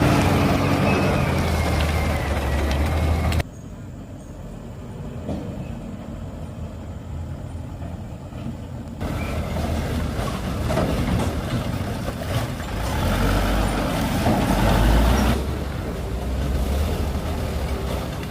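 Heavy truck engines running, with abrupt jumps in sound about 3 seconds in and again about 15 seconds in.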